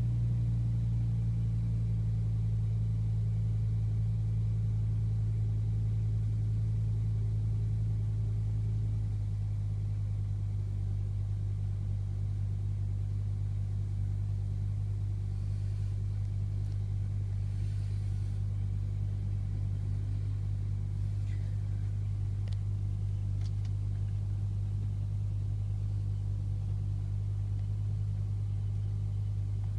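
BMW M5 engine idling steadily after a cold start, its idle dropping slightly about ten seconds in as it settles. The owner suspects the sound may point to a VANOS (variable valve timing) problem.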